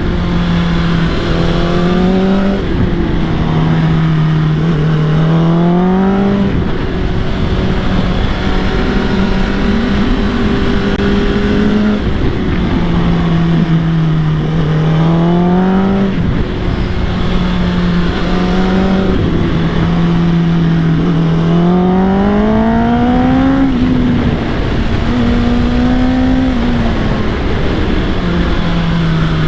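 Motorcycle engine running hard at track speed, its pitch climbing several times as the throttle opens, between steadier stretches, over a continuous rush of noise.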